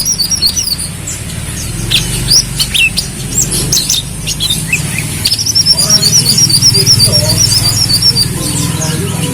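Brown-throated sunbird singing: quick high chirps and twitters, then a fast warbling trill from about halfway in until near the end, over a steady low hum.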